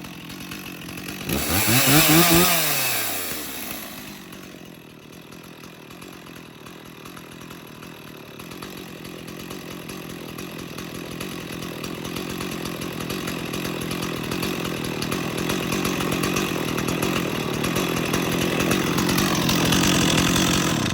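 Two-stroke chainsaw running after a cold start: a short rev about two seconds in, then a steady idle that slowly grows louder, until the engine is shut off and stops abruptly at the end. The saw is running well.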